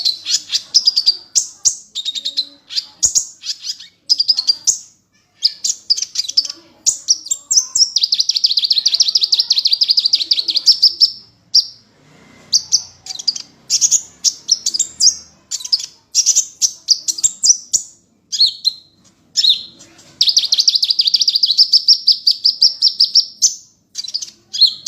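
A songbird singing continuously in quick high chirps and whistled phrases, broken twice by a long, very rapid trill lasting about three seconds each, a recorded tutor song of the kind played to train white-rumped shamas.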